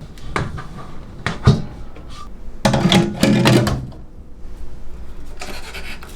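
Irregular knocks and clatters, the sharpest about one and a half seconds in, with a louder, busier stretch of clattering near the middle.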